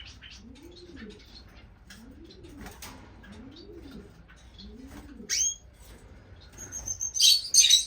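Cage birds in a bird room calling together: many short, high finch chirps over a low, soft coo repeated about once a second. A loud falling chirp about five seconds in, and a loud burst of shrill chattering near the end.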